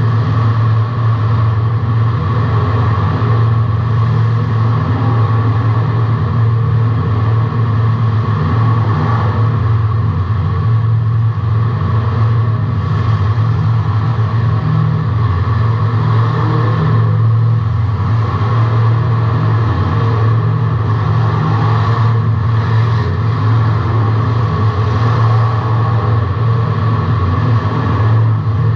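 Race car's engine running loudly at a nearly steady pitch, heard from inside the car.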